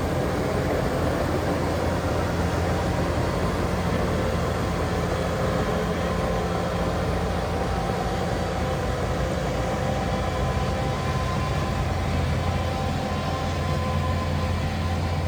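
Heavy diesel engine of earthmoving machinery running steadily, a deep continuous hum with a faint steady whine above it.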